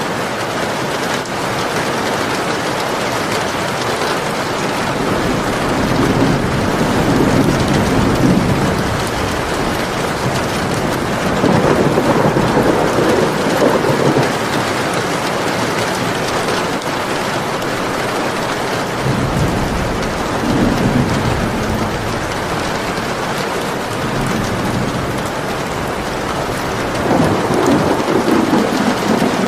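Steady rain falling, with four low rumbles of thunder that each swell and fade over a few seconds.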